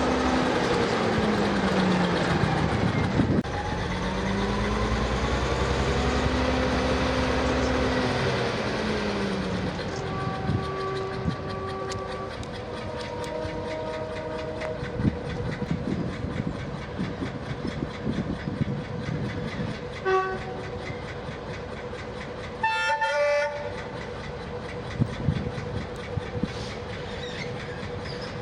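Diesel locomotive working hard, its engine note falling and then rising over the first few seconds, then the train's wheels clattering rhythmically over rail joints. Short horn sounds break in several times in the second half, the loudest near the end.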